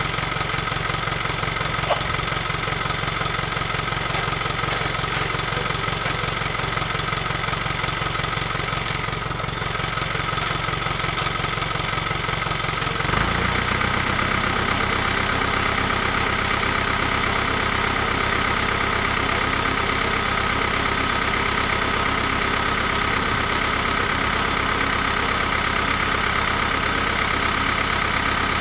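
An engine running steadily at idle. About 13 seconds in, its note shifts to a different speed and then holds steady.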